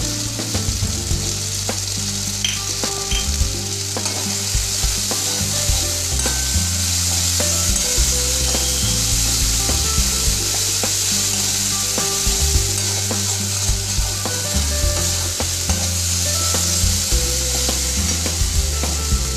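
Onion-tomato masala with chopped green chillies sizzling in oil in a metal kadai, with frequent scrapes and taps of the spatula against the pan as it is stirred.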